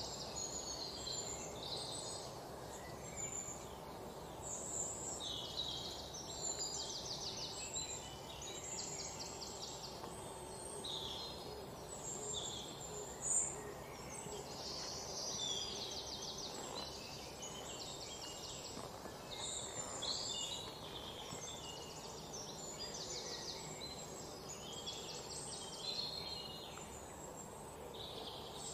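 Birds chirping and trilling again and again, short high calls and quick trills of about a second each, over a steady background hum. A single sharp click sounds about halfway through.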